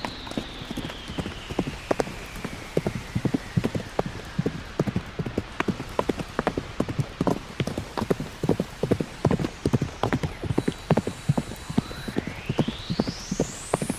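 Hoofbeats clip-clopping in a quick, continuous walking rhythm. A thin electronic tone glides slowly down at first, and a whistling sweep rises quickly near the end.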